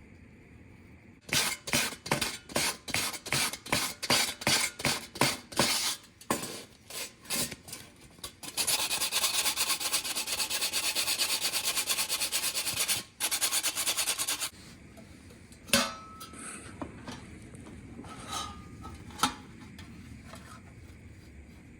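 Hand file rasping on metal in regular strokes about two a second, then about six seconds of continuous fast rasping, followed by a few scattered clicks.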